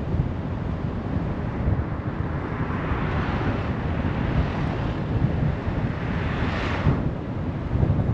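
Steady road and wind rumble of a car driving, with wind buffeting the microphone. Between about three and seven seconds in, another vehicle swells up and fades away as it passes.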